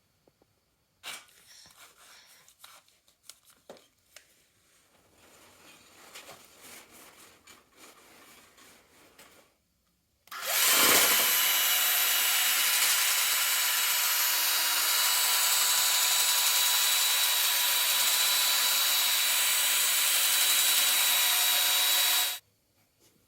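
Cordless drill-driver spinning a length of wire that is held taut to straighten it without it coiling. Faint handling clicks and rustles come first, then the drill spins up about ten seconds in, runs with a steady whine for about twelve seconds, and cuts off abruptly.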